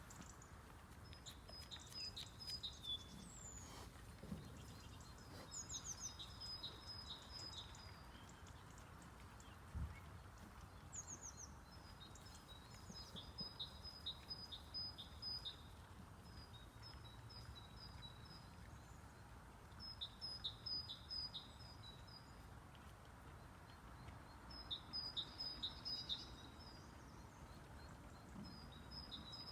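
A songbird singing short phrases of quick, high notes every few seconds, each phrase opening with a brief falling sweep, over faint steady background noise.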